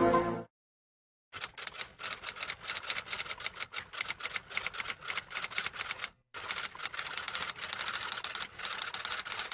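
Rapid typing: fast, uneven clicking of keys in two runs with a brief break about six seconds in.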